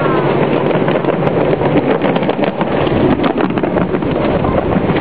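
Ride-on miniature train running, heard from aboard: a steady rumbling run with a cluster of quick clicks in the middle, and wind buffeting the microphone.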